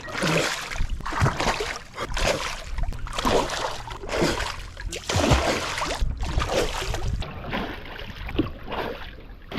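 Water sloshing and splashing in irregular surges as a person wades waist-deep in shallow water, feeling along the bottom with their feet.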